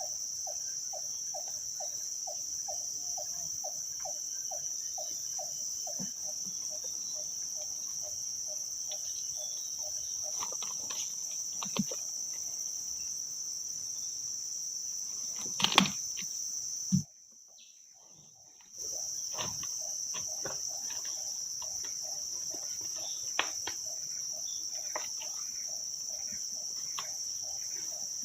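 Steady, high-pitched chorus of insects in the forest, with a lower pulsing chirp repeating about three times a second. A few sharp knocks sound around the middle, and about two-thirds of the way in the sound drops out for nearly two seconds.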